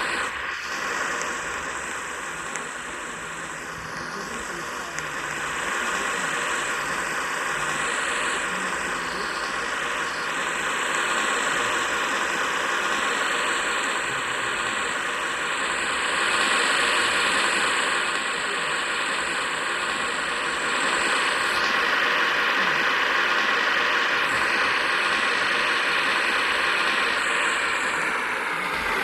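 Ventisol wall fan running: steady motor hum with a rush of air from the blades. Near the end the pitch starts to fall as the fan slows down.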